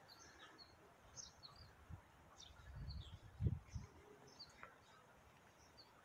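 Faint bird chirps, short and high, scattered throughout, over quiet outdoor background noise. About three seconds in comes a brief low rumble with a single louder muffled thump.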